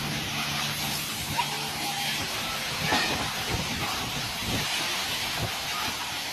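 Strong wind blowing with a steady rushing noise, with low rumbling gusts about three to five seconds in.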